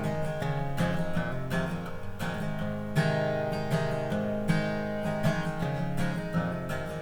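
Acoustic guitar strummed and picked in an instrumental passage between sung verses, steady rhythmic chords.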